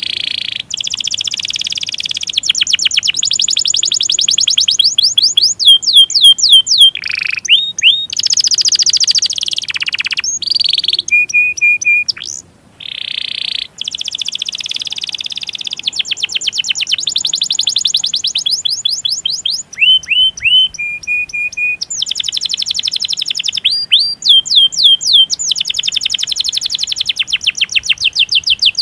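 Domestic canary singing: long, rapid rolled trills alternating with runs of sharp, down-slurred 'cuit cuit' chirps, with a brief pause about halfway through.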